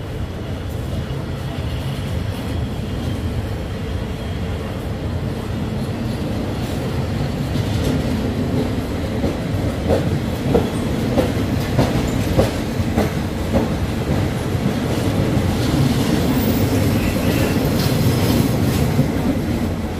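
Passenger coaches of a departing train rolling past the platform: a steady low rumble, with a run of rhythmic wheel clacks over rail joints about halfway through, growing a little louder toward the end.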